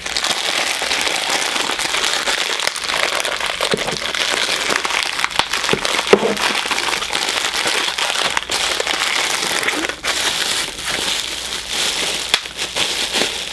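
Plastic packaging crinkling and crackling continuously as it is handled and torn open, with many small sharp crackles.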